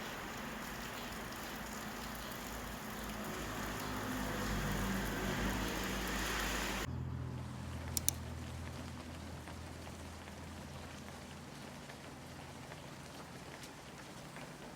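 Rain falling steadily, a dense hiss that cuts off abruptly about seven seconds in to a fainter, thinner hiss. Two sharp clicks come close together about a second after the cut.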